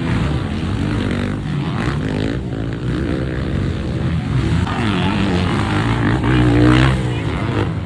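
Motocross dirt bike engines revving hard during a race, their pitch rising and falling with throttle and gear changes.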